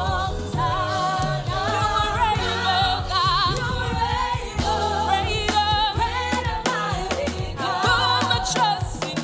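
Live gospel worship music: singers holding long notes with strong vibrato over a band with steady bass and drums.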